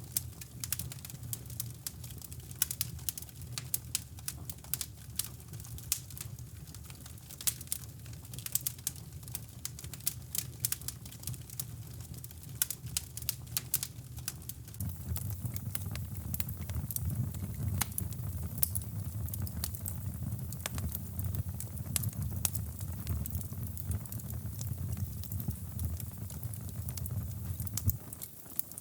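Wood fire crackling in a fireplace: irregular sharp pops and snaps over a low, steady rush that grows louder about halfway through.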